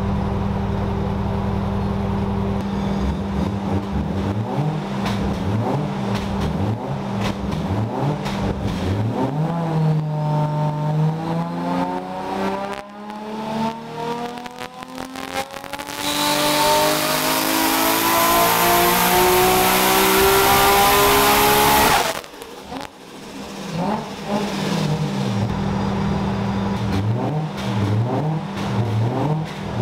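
Nissan R32 Skyline GT-R's RB26DETT straight-six, stroked to 2.7 L and fitted with a single HKS GT III-5R turbo, running on a hub dyno during a tuning pull. It idles and is blipped a few times, then about ten seconds in it pulls under full load, its pitch rising steadily to high revs and getting much louder with a rushing hiss for the last several seconds. It cuts off suddenly when the throttle is shut, then blips again and settles back toward idle.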